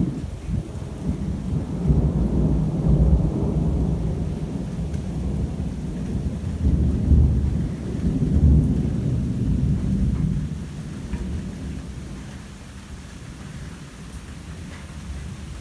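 Thunder rumbling long and low during a heavy thunderstorm, swelling over the first ten seconds and then fading away, with rain beneath it.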